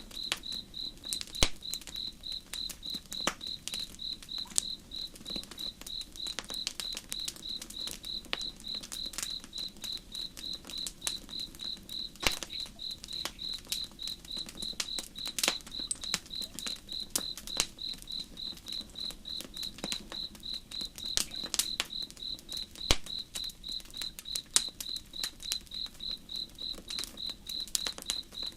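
Campfire crackling with irregular sharp pops, over a cricket chirping steadily two or three times a second.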